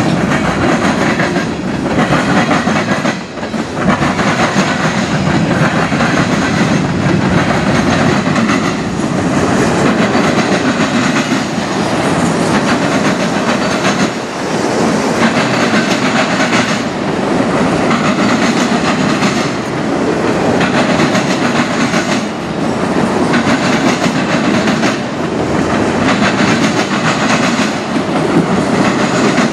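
Freight train cars rolling past close by: steel wheels on rail making a loud, steady rolling noise with repeated clacks as the wheels cross the rail joints, the covered hoppers giving way to autorack cars.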